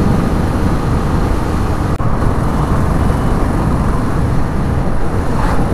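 Royal Enfield Classic 350 BS6's single-cylinder engine and exhaust running steadily at a highway cruise of about 80 km/h, mixed with the rush of wind.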